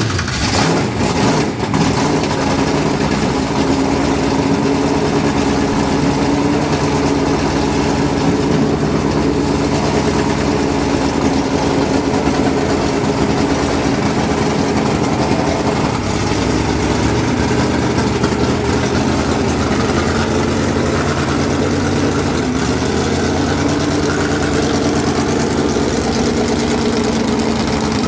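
Holden VL Calais drag car's V8 engine idling steadily at a constant pitch.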